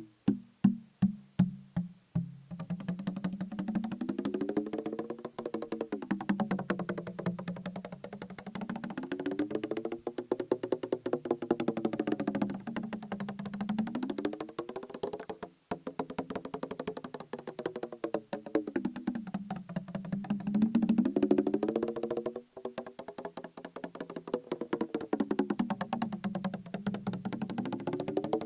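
Fingertip tapping on a plastic bottle partly filled with liquid: a few separate hollow taps, then a fast steady run of tapping whose tone rises and falls in slow sweeps, pausing briefly twice.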